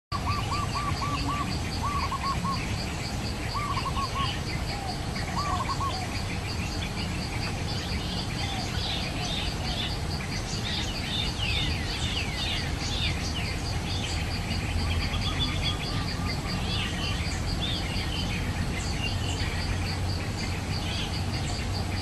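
Wild small birds calling: groups of short repeated notes in the first few seconds, then many quick high falling chirps through the middle, over a steady, evenly pulsing high note and a low rumble.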